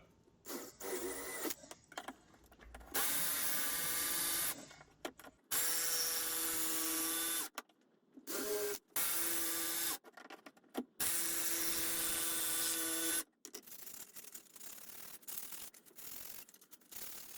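An electric power tool runs with a steady hum in four short spells of one to two seconds, each cut off sharply. Fainter light knocks and workshop handling noises come before the runs and after them toward the end.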